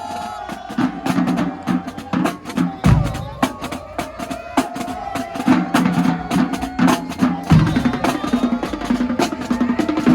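Marching drumline playing a funk cadence: rapid snare strokes and rolls over pitched bass-drum notes, in a steady driving rhythm.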